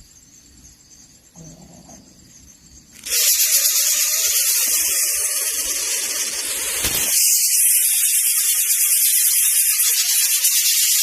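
Coucal nestlings hissing, a harsh continuous snake-like hiss that starts suddenly about three seconds in. It is the defensive hiss the chicks give when disturbed.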